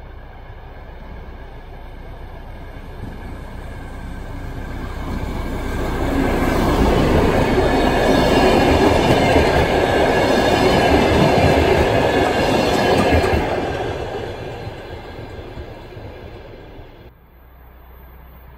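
A DR1Am diesel multiple unit approaches, passes close by at speed and draws away, the engine and the wheels on the rails growing louder over about six seconds, staying loud for about seven, then fading. Near the end the sound cuts off suddenly to a quieter, steady background.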